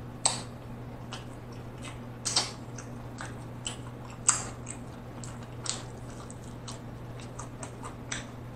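Close-miked chewing of fried chicken wing meat: wet mouth clicks and smacks, the loudest three about two seconds apart, with no crunch.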